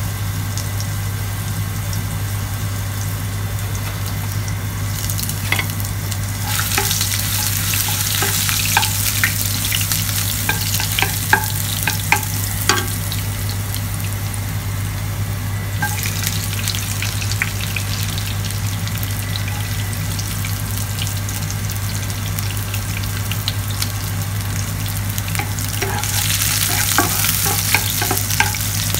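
Ginger strips sizzling in hot oil in a nonstick frying pan, stirred with a wooden spatula that clicks against the pan. The sizzle swells louder twice, about a quarter of the way in and again near the end, by which time garlic is frying with the ginger.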